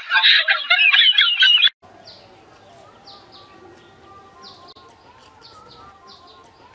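A loud, shrill, wavering burst cuts off suddenly under two seconds in. It is followed by small birds chirping: short, high chirps falling in pitch, a couple each second, over a faint outdoor background.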